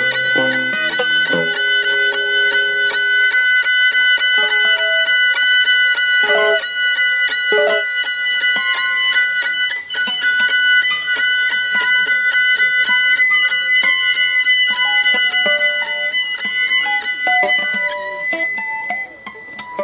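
Free-improvised violin and guitar: the violin holds high, steady tones while short plucked notes come and go beneath, with a few sharp knocks. The sound drops away near the end.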